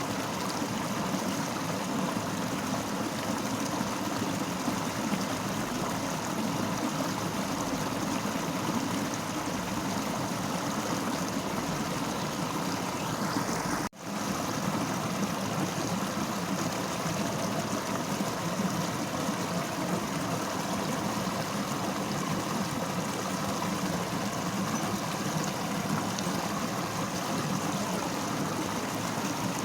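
Fast-flowing river rushing steadily. About halfway through the sound cuts out for a split second, then comes straight back.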